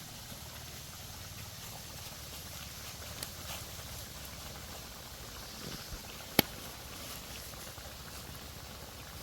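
Steady outdoor background noise with a low rumble and a high hiss, a few faint ticks about three seconds in, and one sharp click about six and a half seconds in.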